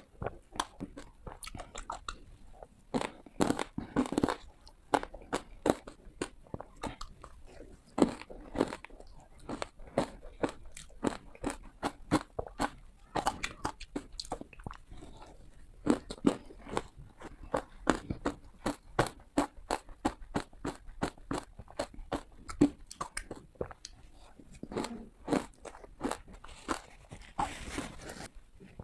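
Ice being bitten and crunched between the teeth close to the microphone: a long run of crisp, cracking bites in irregular clusters, with chewing between them.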